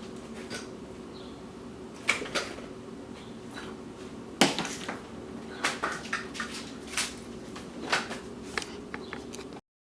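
Scattered knocks and clicks of objects being handled and set down, over a steady electrical hum; the sound cuts off abruptly near the end.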